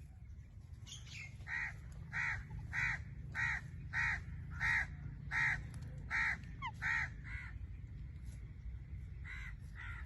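Blue-fronted amazon parrot giving a rhythmic series of about ten harsh, crow-like squawks, evenly spaced, followed by two more near the end. A steady low hum runs underneath.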